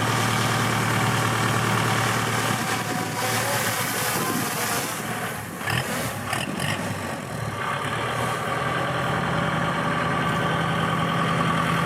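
Tractor engine running steadily, with a stretch of rushing noise over it a few seconds in.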